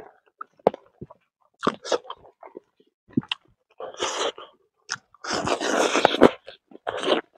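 Close-miked chewing and crunching of roasted fish and rice, in irregular bites. The longest and loudest stretch of crunching comes about five seconds in.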